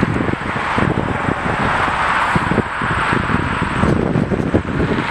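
Steady rushing jet noise from airliners at the airport, with wind buffeting the microphone in irregular low thumps.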